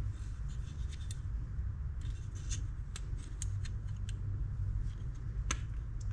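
Small metal reel parts clicking and scraping as they are handled and fitted during reassembly of a spinning reel. There are a few scattered light clicks and one sharper click near the end, over a steady low hum.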